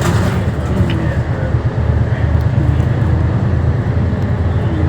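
Scania K320HB bus engine droning steadily from inside the cabin while the bus is under way, with road noise and faint brief whining tones, one near the end.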